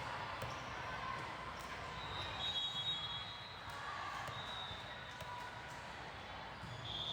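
Volleyball gym sounds: a ball being hit and bouncing on the court, with a few short high squeals and voices in the background.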